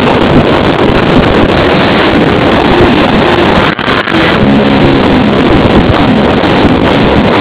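Car engine revving hard as it drifts, heavily masked by wind buffeting the microphone; the sound drops out briefly about halfway through.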